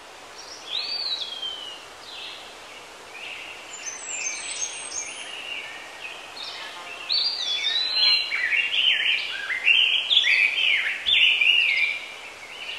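Several songbirds singing and calling over a steady background hiss, with short whistled chirps and falling notes that grow denser and overlap from about seven seconds in.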